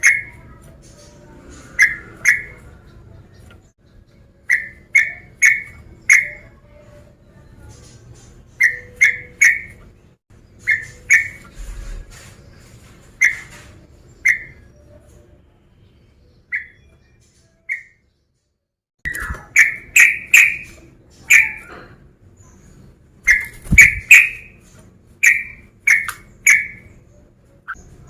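Sooty-headed bulbul (trucukan) calling: short, loud whistled notes, mostly in quick pairs and triplets, repeated at irregular intervals.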